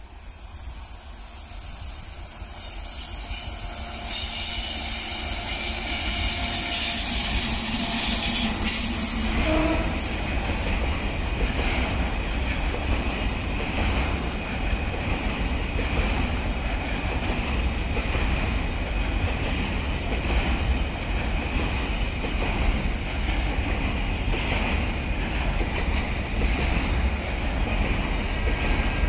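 A WAG9-Hi electric locomotive hauling a car-carrier freight train approaches and passes, with a high whine and squeal that grow steadily louder for about nine seconds and then cut out as it goes by. After that the train's long string of wagons rolls past with a steady rumble and clatter of wheels on the rails.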